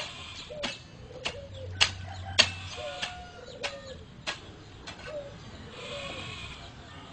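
Bird cooing in short, low, arching notes, with a run of sharp clicks about every half second that stops about five seconds in.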